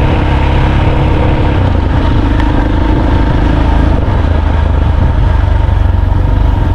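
A vehicle being driven, its engine running steadily under a heavy low rumble.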